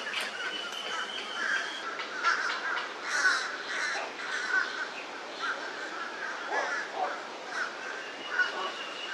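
Great egret chicks giving repeated harsh, cawing begging calls, with a thin steady high whine in the background at the start and again near the end.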